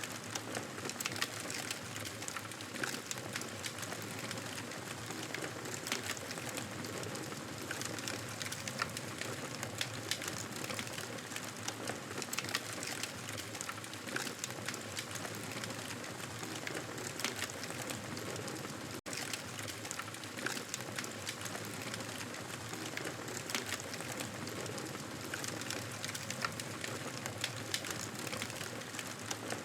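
Wood fire crackling in a fireplace: a steady hiss dotted with many small, sharp pops. The sound cuts out for an instant about nineteen seconds in.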